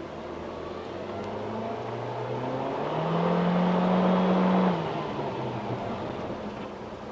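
Nissan Juke NISMO RS's 1.6-litre turbocharged four-cylinder, heard from inside the cabin, accelerating hard through its CVT. The engine note climbs, holds at a steady high pitch for a couple of seconds at its loudest, then falls away sharply about five seconds in as the throttle is released.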